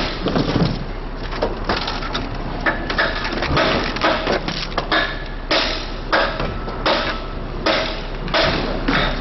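Hard blows on metal repeated in a steady series, roughly one to two strikes a second, some with a brief metallic ring.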